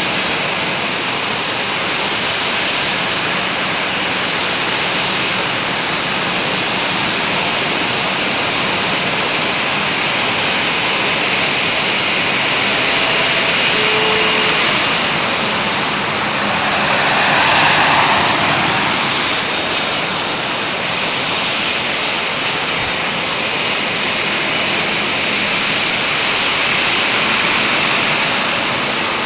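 Alpha Jet turbofan engines running, a loud steady rush with a high whine that swells briefly about two-thirds of the way through.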